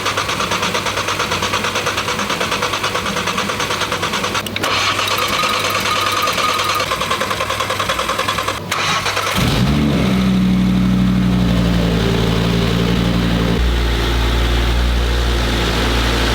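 Freshly rebuilt Audi RS3 8Y 2.5-litre five-cylinder engine being cranked on the starter to prime it, turning over with a fast even rhythm for about nine seconds with two short pauses. It then fires about nine seconds in and settles into a steady idle, its note shifting lower and fuller a few seconds later.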